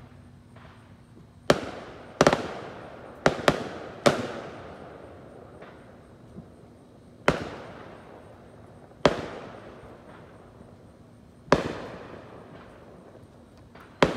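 Fireworks going off: about nine sharp bangs at irregular intervals, some in quick pairs, each trailing off in an echo that fades over a second or so.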